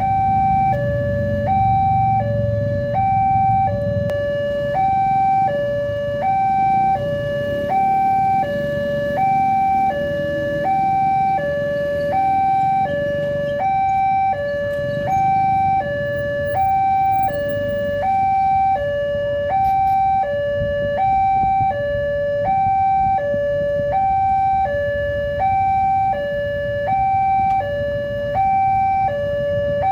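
Railway level crossing's electronic warning signal sounding: two tones, high then low, alternating steadily about once every one and a half seconds.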